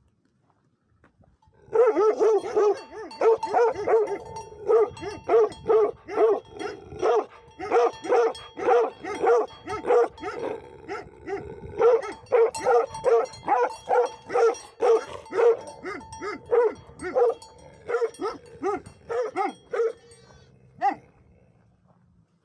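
Livestock guardian dogs barking in a fast, steady run of repeated barks, starting about two seconds in and stopping shortly before the end.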